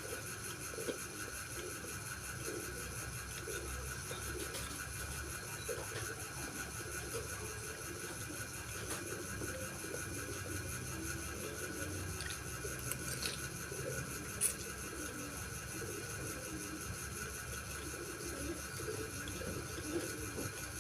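Quiet eating from a bowl of bakso meatball soup: a few scattered spoon clicks over steady low background noise.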